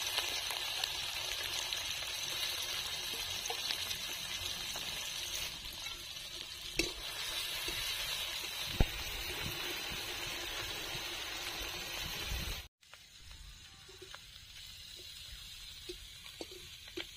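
Small prawns sizzling as they fry in hot oil in an aluminium kadai, with a metal spatula knocking against the pan a couple of times. Later the sizzle drops suddenly to a quieter hiss with light taps of the spatula.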